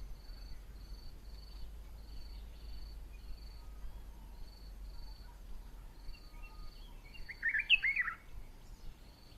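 Insect chirping in a steady high pulse about twice a second, with a short burst of several bird call notes near the end.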